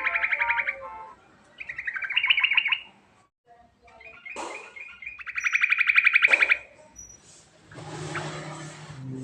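Yellow-vented bulbul (trucukan) singing a run of rapid, pulsing trilled phrases about a second long, separated by short pauses, in its rolling song with mixed-in imitations. A rougher, noisier stretch with a low hum comes near the end.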